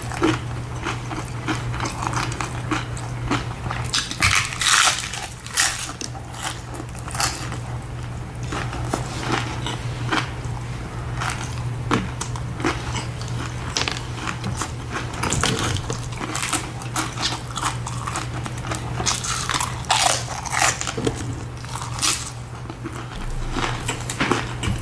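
Person biting and chewing tacos close to the microphone: a run of short, irregular crunchy bites and chews.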